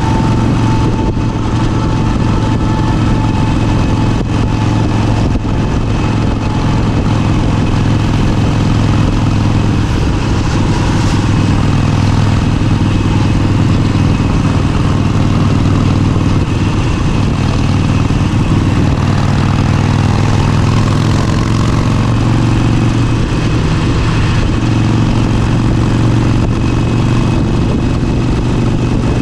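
Motorcycle engine running steadily, its pitch nearly constant, with no revving up or down.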